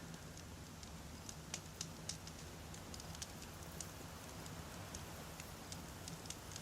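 Wood fire crackling: many small, irregular pops and snaps of burning logs over a low, steady rumble.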